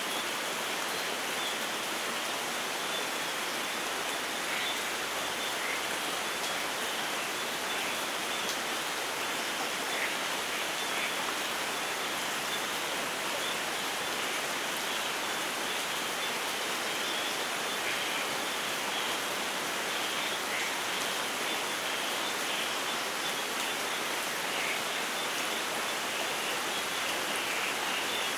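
Steady rainfall in a rainforest, an even hiss with scattered individual drops; no thunder.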